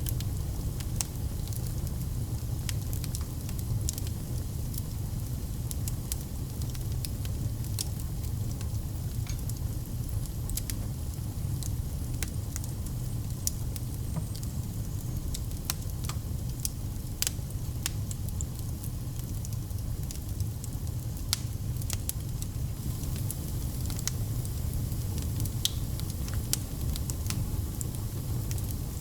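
Fire burning in a fireplace: a steady low rumble with irregular sharp crackles and pops, several a second.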